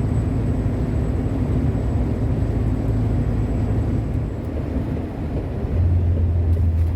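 Truck engine running with road noise, a steady low hum that grows louder about six seconds in.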